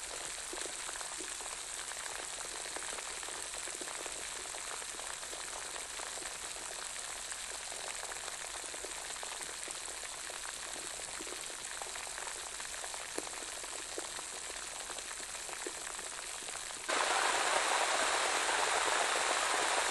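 Steady rain falling, a hiss dotted with the small ticks of single drops. About 17 s in it turns abruptly louder and denser, like a heavier downpour.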